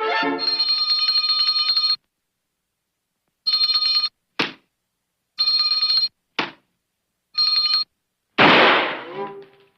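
Old-style telephone bell ringing: one ring of about two seconds, then three shorter rings with a short sharp sound between each pair. A loud crash comes near the end and dies away.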